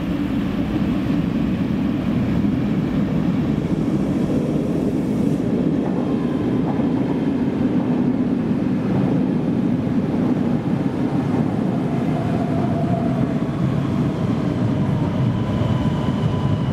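Electric passenger train running through an underground station without stopping: a steady rumble from the wheels on the rails, with a few faint whines in the second half.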